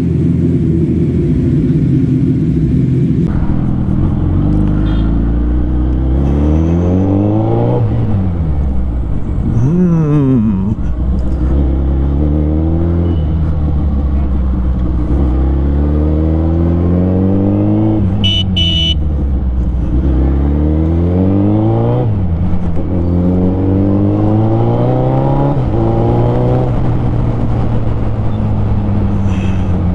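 Suzuki Hayabusa's inline-four engine idling steadily, then, under way, its revs rising and falling again and again as it pulls through the gears and eases off. A horn beeps twice briefly a little past the middle.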